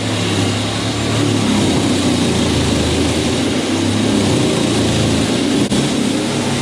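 Truck engine running steadily under a broad rushing noise, with a brief dropout in the sound near the end.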